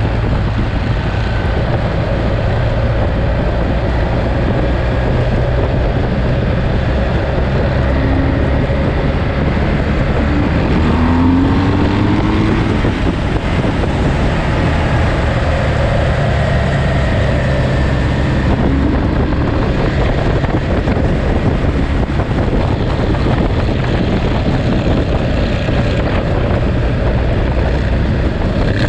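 Ducati Monster's V-twin engine running steadily while riding, with wind rushing over the microphone; the engine pitch rises briefly a few times.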